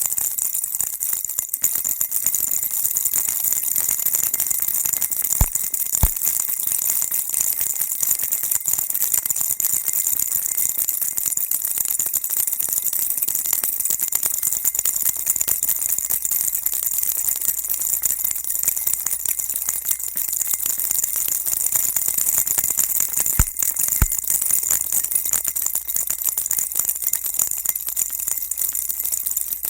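A baby rattle shaken without pause, a dense, steady, high-pitched rattling and jingling used as white noise to soothe a baby. Two pairs of sharp clicks stand out, one about five seconds in and one near the end.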